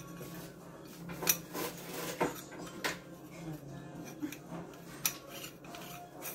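Parts of a kitchen sink basket strainer clinking and clicking against each other as they are handled and fitted together. There are several sharp, irregular knocks, the loudest about a second in.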